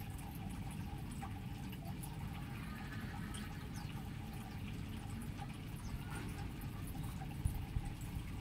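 Aviary birds chirping faintly and intermittently over a steady low background noise, with two soft knocks near the end.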